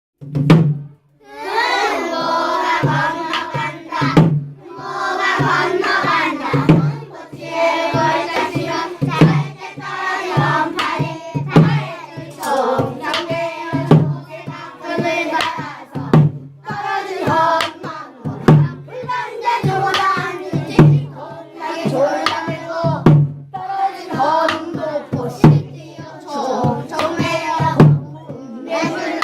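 Children singing pansori in Korean, with a steady beat about once a second beneath the voices.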